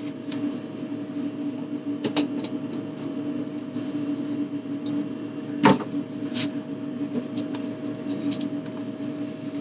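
A steady electrical hum with a few short clicks and knocks of items being handled, the loudest knock a little more than halfway through.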